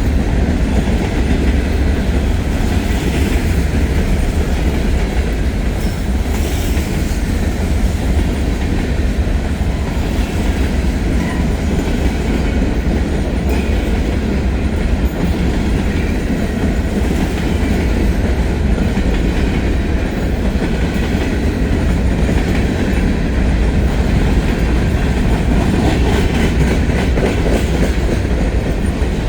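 Heavy freight trains rolling past at close range: a steady, loud rumble of wheels on rail with clickety-clack over the rail joints.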